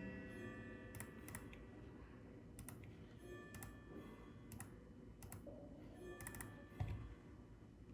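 Scattered computer keyboard clicks, about a dozen at irregular intervals, over faint background music, with a single soft low thump about seven seconds in.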